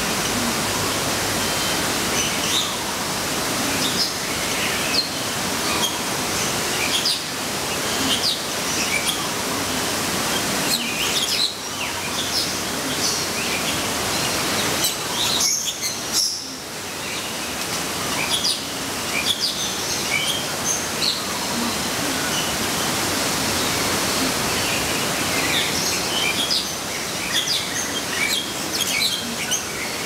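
Many short, high bird chirps and calls scattered throughout, over a steady rushing background noise.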